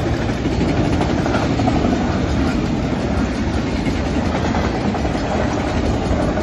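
Autorack freight cars of a Canadian Pacific train rolling past at a grade crossing: a steady, unbroken rumble of steel wheels on the rails.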